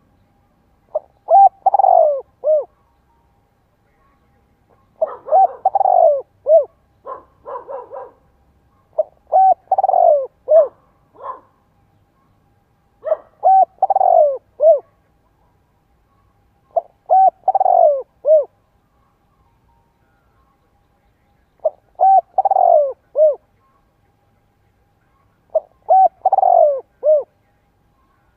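Spotted dove cooing in repeated phrases, about one every four seconds, each a quick run of a few coos that fall in pitch. A cluster of shorter, quicker notes follows the second phrase. This vigorous cooing is the call used to provoke and lure wild doves.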